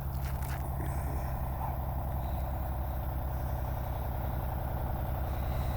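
Steady low engine drone with a fast, even flutter, like a large engine idling.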